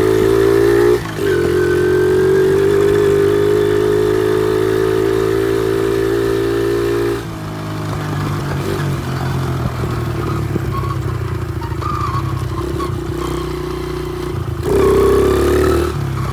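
Honda XR70 pit bike's small single-cylinder four-stroke engine running under steady throttle while riding, with a brief dip about a second in. About seven seconds in the throttle comes off and the engine falls to a lower, uneven note, then revs up again near the end.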